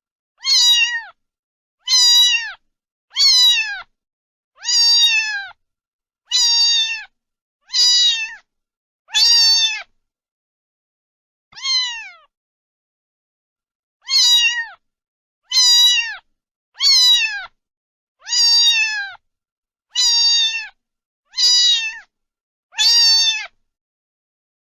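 Domestic cat meowing over and over: about fifteen short meows, each falling in pitch at the end, with dead silence between them and a longer pause about ten seconds in.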